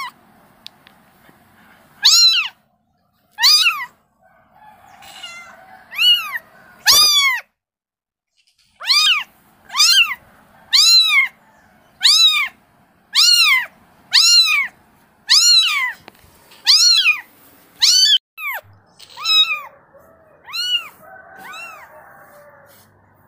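Kitten meowing to call its mother: a long string of short, high-pitched meows, each rising then falling in pitch, coming about once a second.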